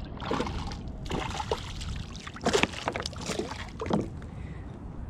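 Water splashing and sloshing around a kayak, with several sharp splashes and knocks, the loudest about halfway through, as a small hooked fish is brought in; a steady rush of wind and water underneath.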